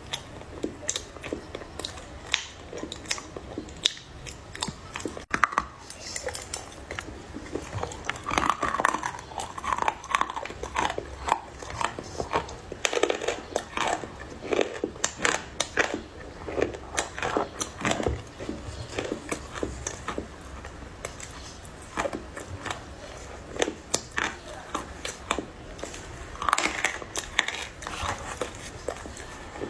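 Close-up biting and chewing of crunchy dry clay, a run of sharp crunches and crackles.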